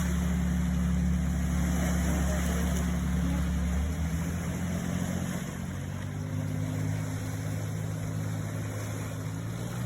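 Motorboat engine running with a steady low drone over a hiss of water and wind. About four seconds in, its note changes and its deepest rumble falls away.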